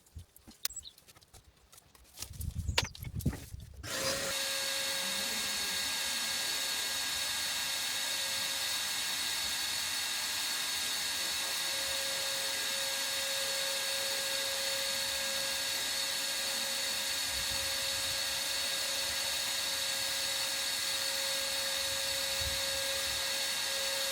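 A few light knocks, then about four seconds in a power tool's motor starts and runs steadily at an even pitch and level.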